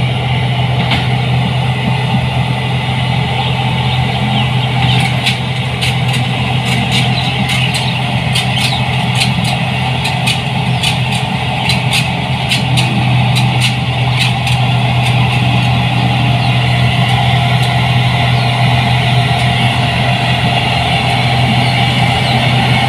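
New Holland 8060 combine harvester's engine running steadily with a strong low hum. A run of sharp, irregular clicks or ticks comes in about five seconds in and dies away about ten seconds later.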